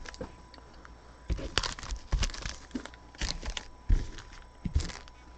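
Trading card packs and box packaging being handled: crinkling wrappers and rustling, in about five short bursts with a few sharp clicks and knocks.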